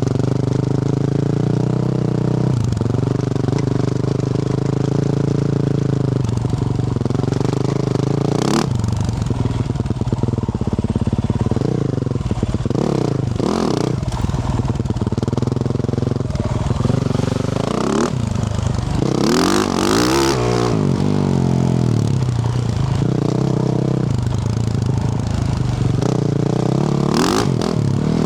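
2024 Yamaha YZ450F's single-cylinder four-stroke engine with a Yoshimura RS-12 exhaust, riding with the throttle opened and closed again and again so the pitch keeps rising and falling. Short clatters and scrapes break in now and then.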